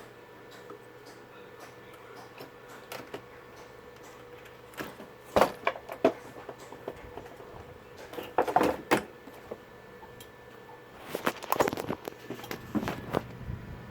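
Clattering knocks of hard objects being handled, in a few short clusters a few seconds apart, over a faint steady hum.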